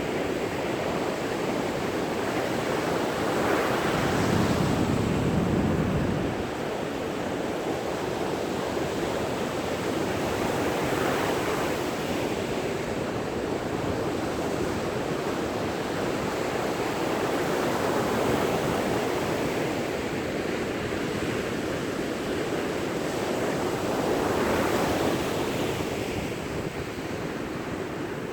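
Sea waves breaking on a sandy beach: a steady wash of surf that swells as each wave breaks, about every six or seven seconds, the biggest a few seconds in.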